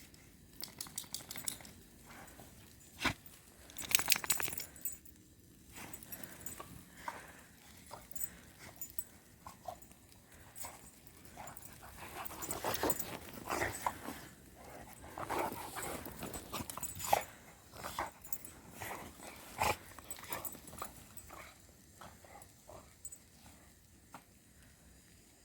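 Two dogs playing in the snow: irregular scuffling and crunching, with bursts of noisier activity a few seconds in and again in the middle.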